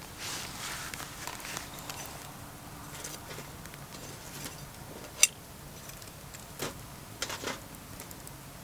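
Wood campfire crackling: scattered small pops over a soft hiss, with one sharp, loud pop about five seconds in and a few more in the last couple of seconds.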